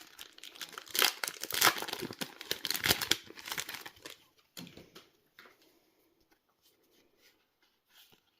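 Foil trading-card booster pack wrapper crinkling and tearing open by hand, a dense run of crackles that thins to a few scattered rustles after about four seconds.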